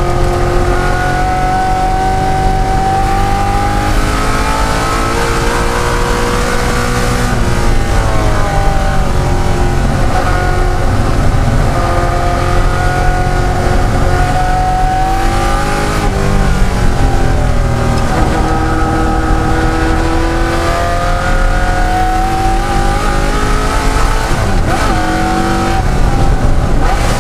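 De Tomaso Pantera's Ford V8 engine at racing speed. Its pitch climbs steadily through each gear, then falls away sharply at each shift or lift for a corner, several times over.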